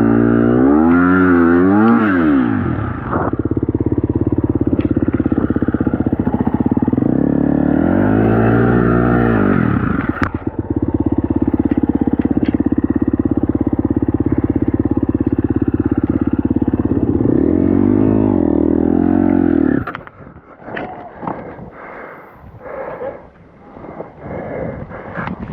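Single-cylinder four-stroke dirt bike engine, a KTM 250 SX-F, revving up and down three times with steady running between the revs. It cuts out suddenly near the end, leaving irregular knocks and clatter.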